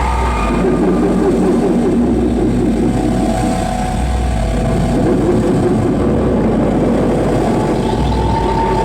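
Live noise music: a loud, dense wall of distorted noise with an uneven low throbbing pulse underneath. A held mid-pitched tone comes in near the end.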